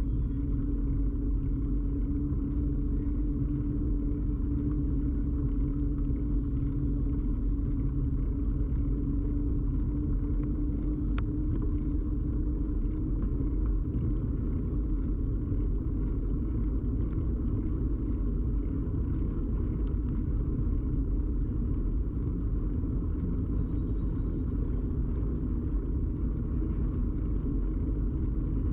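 Steady low rumble of a bicycle ride picked up by a camera fixed to the bike: tyres rolling on the road and the bike's vibration carried straight into the camera. A hum runs under it and fades about a third of the way through.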